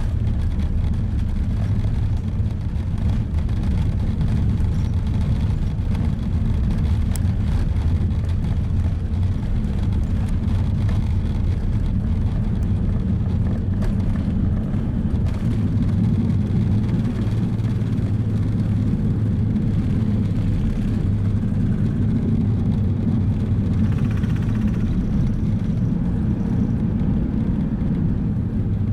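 Steady low rumble of an Airbus A380's engines and airflow, heard from inside the passenger cabin.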